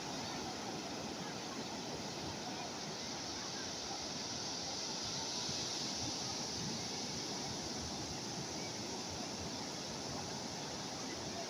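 Calm sea waves washing steadily, an even hiss of water that swells gently around the middle.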